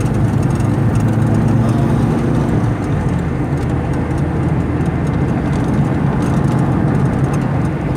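Car engine and tyre noise heard from inside the cabin while driving on a highway: a steady low hum with engine tones, some of which change about two and a half seconds in.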